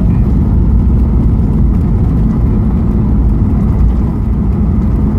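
Steady, loud, low rumble inside the cabin of a Ryanair Boeing 737 airliner during the landing: engine and airflow noise heard from a passenger seat, with no distinct bumps or changes.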